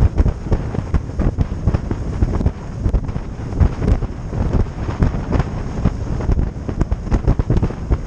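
Wind buffeting the microphone on a moving boat, in irregular gusts over the steady noise of the boat's motor and water.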